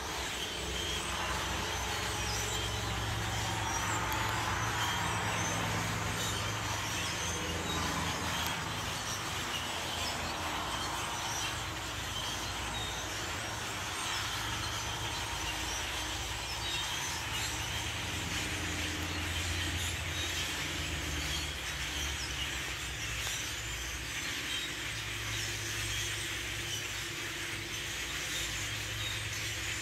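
A large flock of birds calling all at once, a dense continuous chatter of many overlapping chirps, over a low steady rumble.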